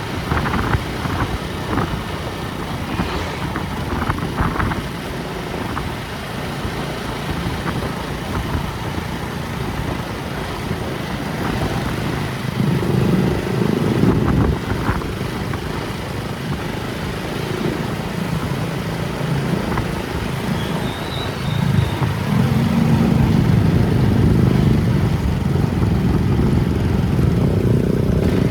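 A motor vehicle driving, with a steady engine and road rumble throughout. The engine note grows louder about halfway through and again for the last several seconds.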